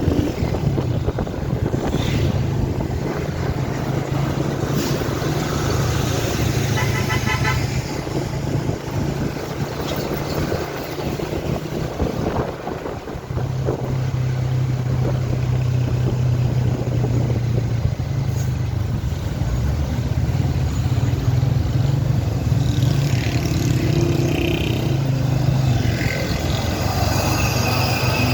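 Heavy truck engine running with a steady low drone, and a horn sounding in quick pulses about seven seconds in and again in the last few seconds.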